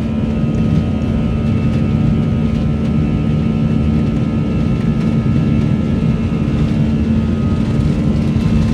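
Airplane engines running during take-off: a loud, steady drone with a steady low hum and a fainter, higher whine.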